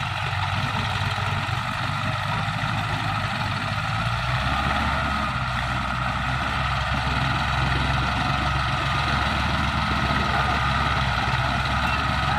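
Tractor engine running steadily, its low note getting a little stronger about four seconds in.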